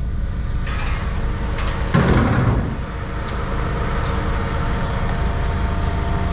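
Heavy machinery running steadily with an engine-like hum, with a louder rushing noise about two seconds in that fades out within a second.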